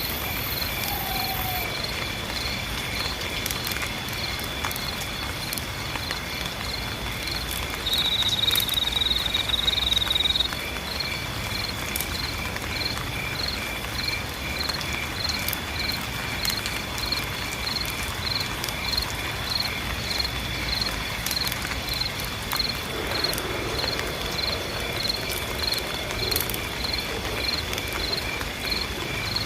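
Night insects: crickets chirping in an even rhythm, about one and a half chirps a second, over a steady high-pitched insect trill. A louder buzzing trill joins for about two seconds, starting about eight seconds in. Beneath it all is a soft, even hiss of rain.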